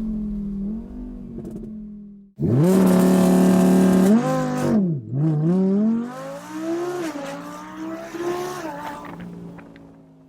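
Audi R8 V10 Plus's 5.2-litre V10 through a Quicksilver aftermarket exhaust. A steady engine note breaks off about two seconds in and comes back loud as the revs climb and hold. It then drops, and a few more revs rise and fall before fading out near the end.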